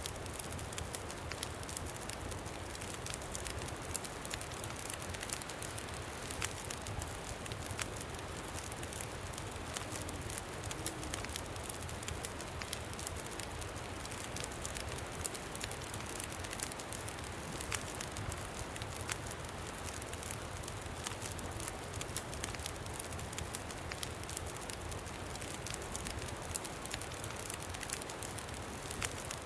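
Campfire crackling with frequent small pops over a steady rush of wind.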